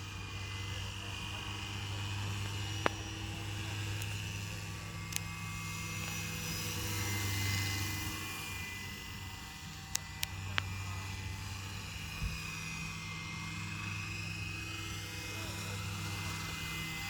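Scale RC Eurocopter EC135 helicopter flying: a steady rotor hum under a high, thin whine, growing louder about seven seconds in and easing off again. A few sharp clicks sound along the way.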